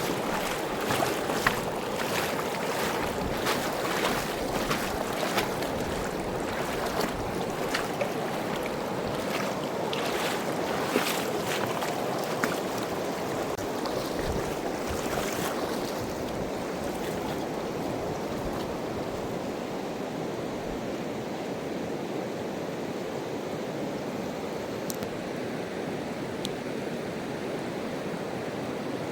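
Steady rush of a fast-flowing mountain river, with frequent short sharp clicks over the first half that stop about halfway.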